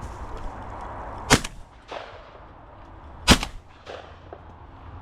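Two shotgun shots about two seconds apart, each a sharp crack followed about half a second later by a fainter echo.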